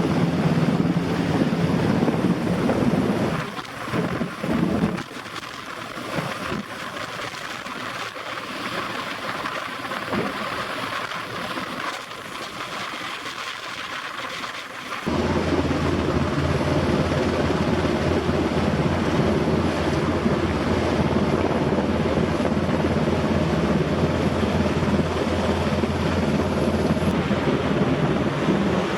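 Steady rushing noise of an NH90 helicopter's rotors and turbines at close range. About four seconds in, the sound turns thinner and quieter, its low rumble gone for some ten seconds, then it comes back at full strength.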